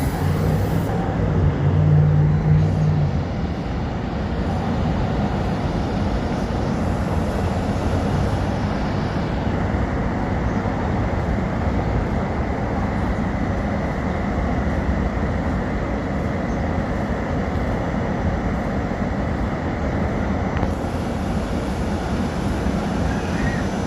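SEPTA regional rail electric train running past with a steady rumble. A low steady tone rises over the rumble for the first few seconds, then fades.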